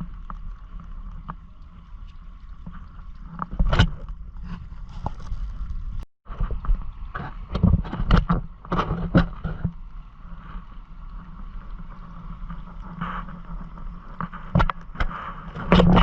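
Water splashing and gurgling against the hull of a Hobie Island sailing kayak under way, with irregular knocks and clicks from the boat. There is a brief break about six seconds in.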